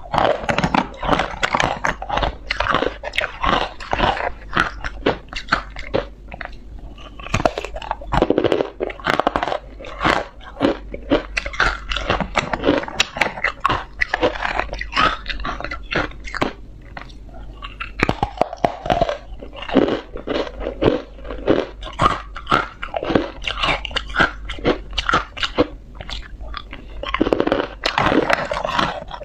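Close-up crunching of frozen ice, bitten and chewed in quick, irregular crackling bursts.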